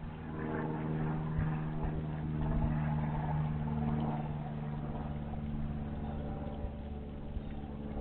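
A motor or engine running steadily: an even, unchanging low hum, with a few faint clicks over it.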